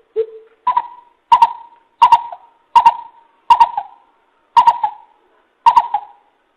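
Coucal (bìm bịp) lure call: a series of loud, short hooting notes, one every half to one second. The first is lower, and the following seven are pitched about twice as high, several with a quick double pulse.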